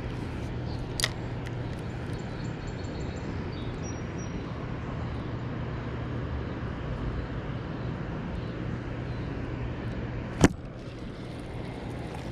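Steady low outdoor rumble with a faint hum, broken by a small click about a second in and a sharp knock at about ten seconds in.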